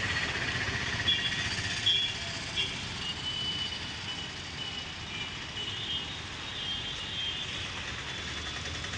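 Train running: a steady rumble with short high-pitched squeals coming and going, and a few sharp knocks in the first few seconds.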